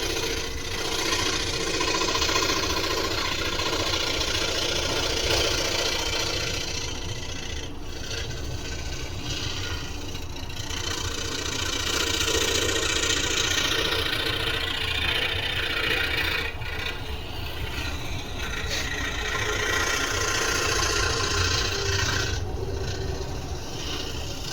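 Scroll saw running steadily, cutting wood.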